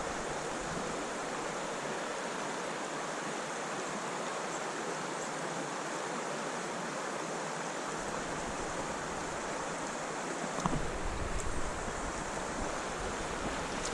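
Steady rush of fast-flowing creek water. A brief low rumble breaks in near the end, like wind buffeting the microphone.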